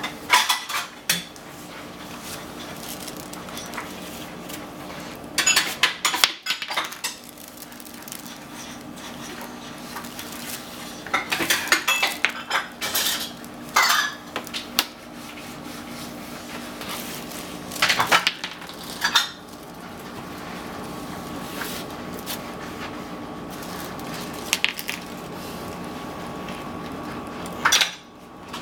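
Fridge magnets clacking and rattling in short clusters as a child handles them, with quieter stretches between, over a steady hum.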